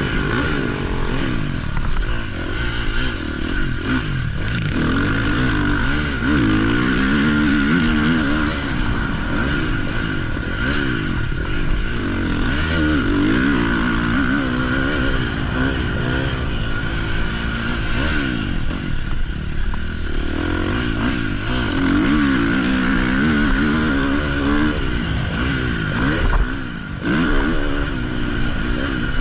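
Motocross dirt bike engine revving up and down as the bike is ridden around the track, its pitch rising and falling every second or two, with a brief drop off the throttle near the end.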